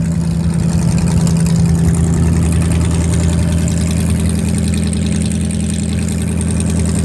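Cockshutt 555 combine's straight-piped Chrysler 318 V8 idling steadily while it warms up after a near-freezing cold start.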